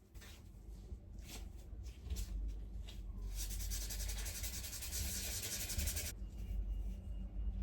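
Rubbing or sanding strokes on a surface: a few separate scrapes, then a dense run of fast strokes lasting about three seconds, which stops abruptly.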